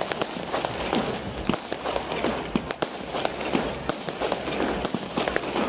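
Fireworks going off: many sharp bangs at irregular intervals over a continuous crackling.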